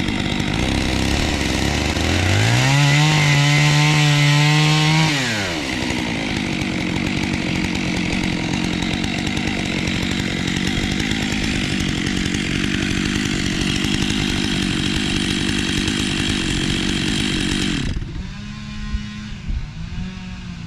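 Chainsaw idling, revved up about two seconds in and held high for a few seconds, then running steadily while cutting wood until it drops away near the end.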